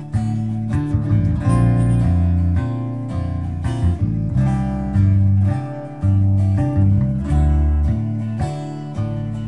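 Acoustic guitar strumming an instrumental passage of a slow song, with low notes changing about once a second and no singing.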